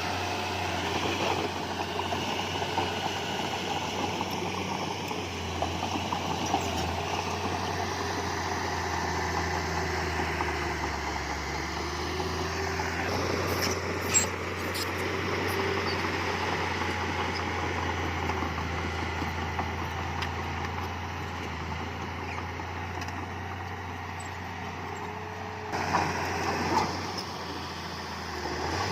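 Diesel engine of heavy earthmoving machinery running steadily, with a few short clicks about halfway through and a brief louder burst near the end.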